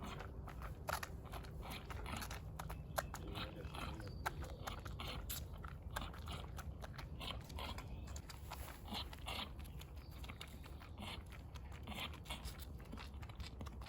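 A horse chewing and crunching its feed: many irregular crisp crunches and clicks.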